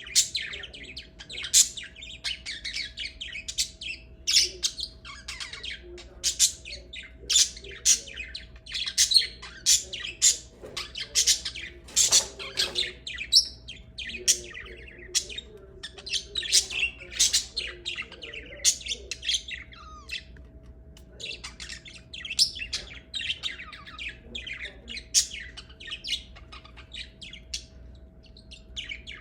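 Lovebirds chattering with a dense run of short, sharp squawks and chirps.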